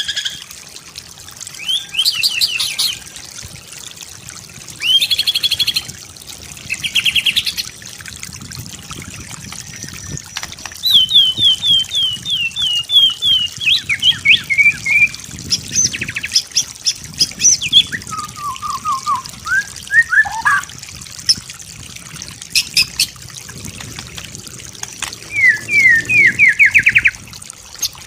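White-rumped shama (murai batu) singing a varied song in separate phrases: quick trills and runs of short repeated notes, some sliding down in pitch, with short pauses between phrases.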